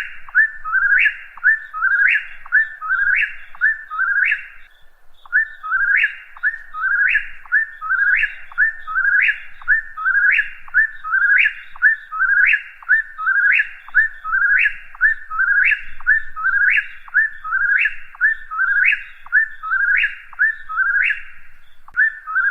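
Whip-poor-will singing its whistled 'whip-poor-will' phrase over and over, about three phrases every two seconds, with one short break about five seconds in.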